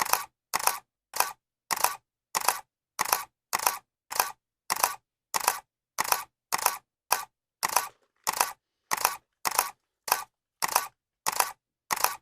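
Camera shutter clicking in a steady, evenly spaced loop, about one and a half clicks a second, each a short, sharp double click with silence between.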